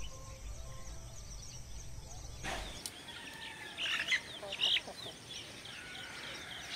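A low steady rumble, then an abrupt change about two and a half seconds in to birds chirping. The chirps are many short, quick calls, loudest a couple of seconds later.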